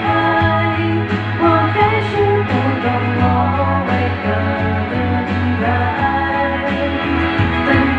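Live pop ballad played by a band on stage, with a steady bass line under sustained chords.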